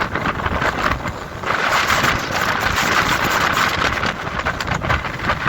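Strong mountain wind buffeting the microphone: a gusty low rumble with a rushing hiss that swells about a second and a half in.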